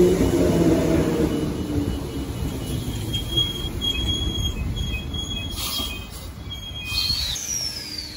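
Transperth electric suburban train running away along the track, its low rumble fading over the first two seconds. A thin, high, steady wheel squeal follows for several seconds. Near the end a high whine falls steadily in pitch.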